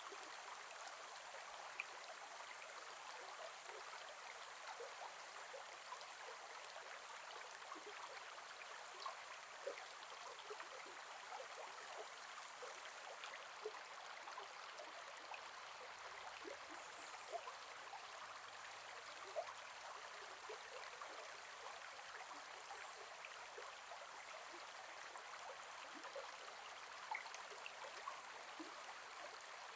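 Gentle forest river flowing steadily, a soft even rush of water with many small splashes and drips scattered through it.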